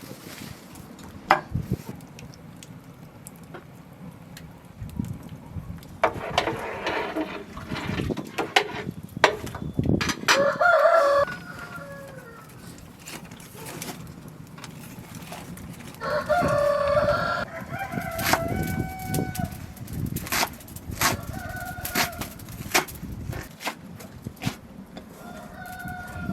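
A rooster crowing twice, about ten and sixteen seconds in, followed by shorter clucking calls, with scattered knocks and clatters throughout.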